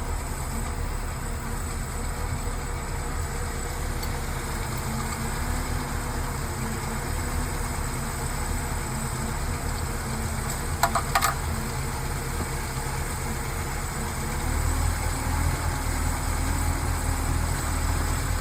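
Engine idling steadily while its ignition timing is being advanced from about 0–2 degrees toward 10 degrees; running at 0 degrees, which the owners blame for its spark knock and overheating. A few sharp metallic clicks come about two-thirds of the way through, and the engine's low note grows louder near the end.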